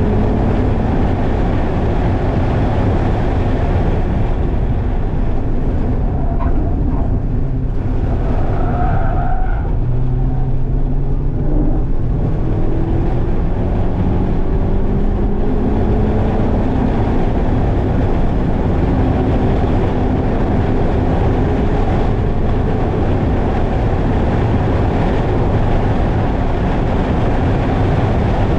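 Mazda MX-5's four-cylinder engine heard from inside the cabin under hard acceleration on a race track, the note climbing steadily through the revs over constant road and wind noise. About eight seconds in the note breaks off and drops, then climbs again.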